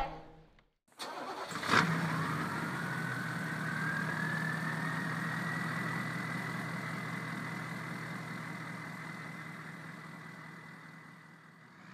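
Vehicle engine starting: a sharp crank about two seconds in, then the engine running with a steady low hum and a high whine that rises and levels off, slowly fading out.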